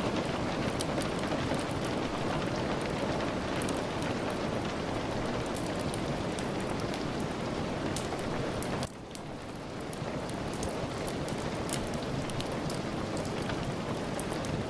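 Steady rain on a surface with a fireplace fire crackling, its small pops scattered throughout. About nine seconds in the sound drops suddenly and swells back over a second or so.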